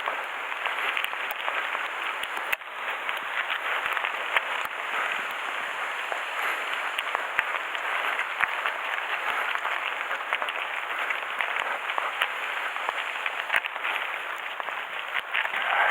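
Mountain bike descending on a gravel course: a steady rush of tyre and gravel noise with many small clicks and rattles.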